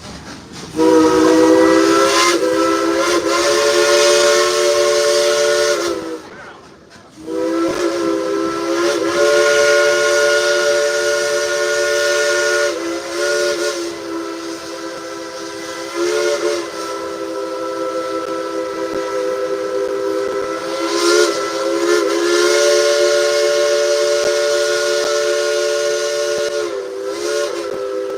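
A Baldwin steam locomotive's chime whistle, played by the engineer as a tune. It gives long, loud blasts of a chord of several tones, which slides and changes pitch from note to note. There is one short break about six seconds in.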